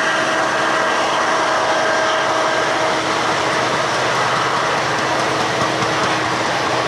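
Passenger coaches of a diesel-hauled train rolling past: a steady, even noise of steel wheels running on the rails, with a faint steady hum.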